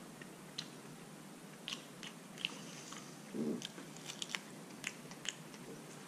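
A man eating boiled polar bear paw meat: faint chewing with scattered soft mouth clicks and smacks.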